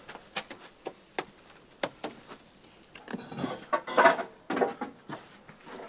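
Bricks being handled and set into clay mortar: scattered sharp knocks and clinks, then a busier run of scraping and clattering about three seconds in.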